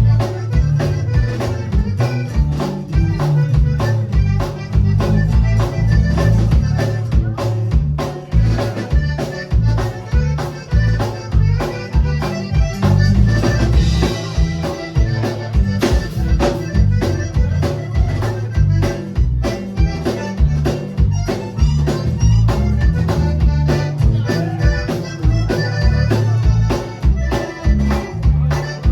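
Accordion playing with a band, with bass and drums keeping a steady beat.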